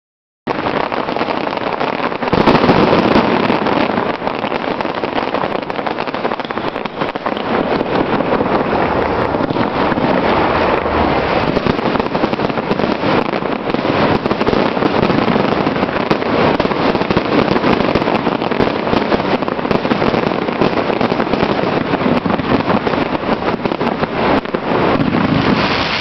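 Fireworks going off in a continuous, dense crackle of many small pops over a steady rushing noise, starting abruptly and growing louder about two and a half seconds in.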